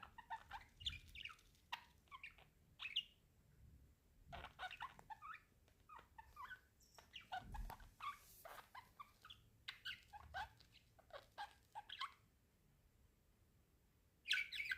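Budgerigars chattering softly: quick, irregular chirps and clicks that stop for about two seconds near the end before one last burst.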